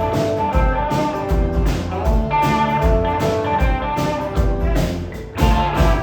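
Live rock band playing, with guitars prominent over bass and a steady drum beat; no singing is heard.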